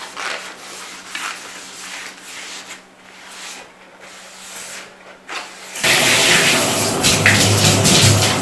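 A water tap turned on about six seconds in, water running and splashing loudly and steadily, after quieter rubbing and hissing sounds.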